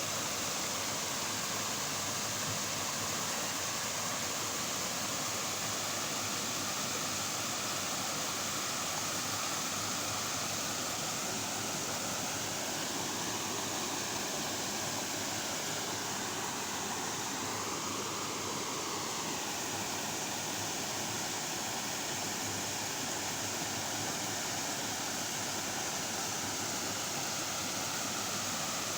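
Waterfall: a steady rush of falling water, with no breaks.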